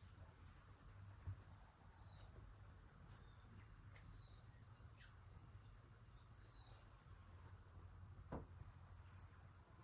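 Near silence: a steady faint low hum with a few faint, short high chirps and a couple of soft clicks.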